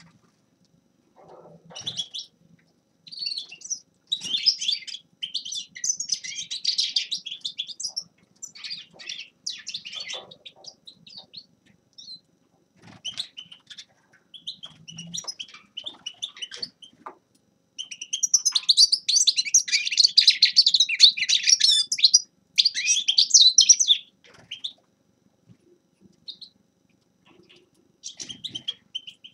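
A finch singing in bursts of fast, high twittering song separated by short pauses, with the longest and loudest run about two-thirds of the way through.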